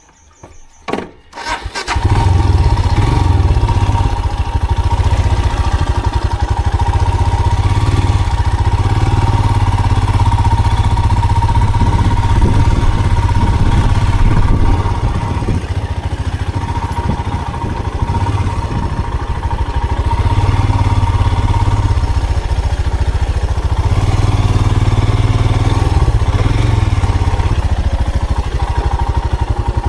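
A vehicle engine starts about two seconds in, after a few clicks, and then runs steadily and loudly.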